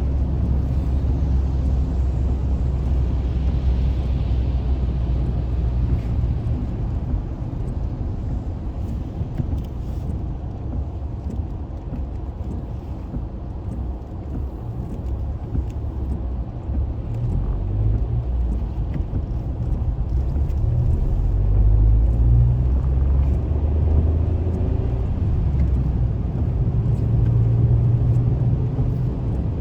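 Car driving on the road, heard from inside the cabin: a steady low rumble of engine and road noise that shifts in pitch as the car changes speed.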